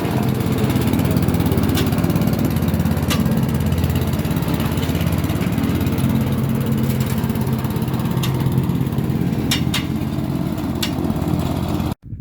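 Sit-on lawn mower's engine running steadily while mowing, with a few sharp ticks scattered through it. The sound cuts off suddenly near the end.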